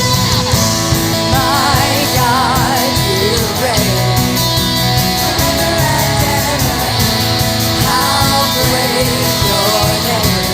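Worship band playing an upbeat rock-style song with guitars and drums, between sung lines; a melody line with vibrato wavers over it twice.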